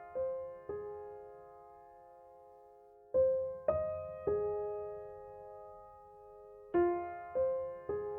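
Background piano music: slow, gentle phrases of three notes struck about half a second apart, each left to ring and fade, with a pause of a couple of seconds between phrases.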